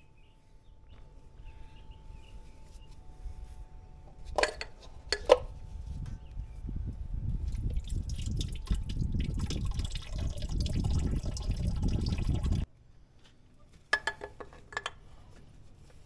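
Oil being poured into the tractor's engine as part of an oil change. The pour builds up, then stops abruptly about 12½ seconds in. There are two sharp knocks shortly before the pour swells and two more after it stops.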